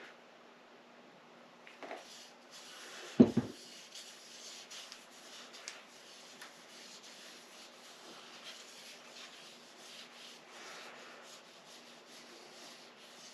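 Cylinder hone rubbing and scraping against the rust-caked wall of a motorcycle engine cylinder, with oil, a steady gritty sound with small ticks, after a single loud knock about three seconds in.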